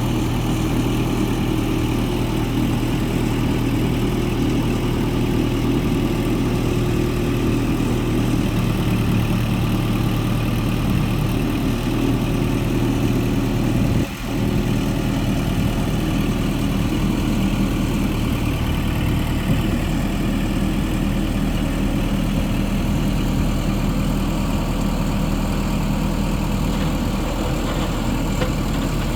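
Versatile 160 bi-directional tractor's diesel engine idling steadily, with a brief break in the sound about halfway through.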